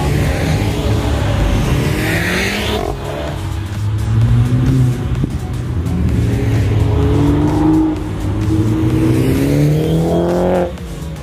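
Car engine accelerating hard over background music, its pitch climbing several times and dropping back between climbs. The engine sound cuts off suddenly near the end.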